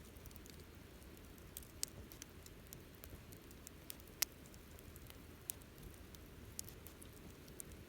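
Wood campfire crackling quietly, with scattered sharp pops and one louder snap about four seconds in, over a faint low rumble.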